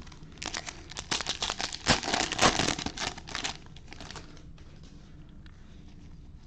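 Foil wrapper of a Bowman baseball card pack crinkling and tearing as it is opened, for about three seconds, followed by a few light ticks.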